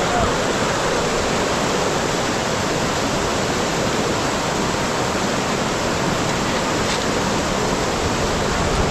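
Floodwater rushing steadily, an even noise with no breaks.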